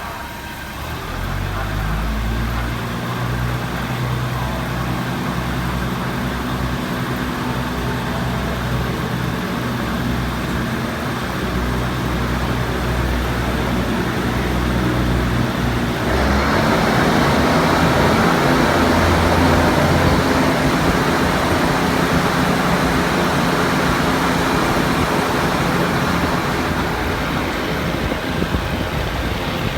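Diesel train heard from on board: about a second in the engine note comes up to a low, steady drone, and from about halfway a broad rumble of the wheels on the rails grows louder as the train gains speed.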